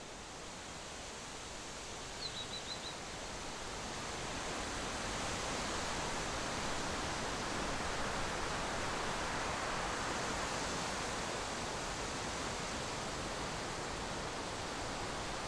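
A steady rushing noise that swells over the first few seconds and then holds, with a short run of four or five high chirps about two seconds in.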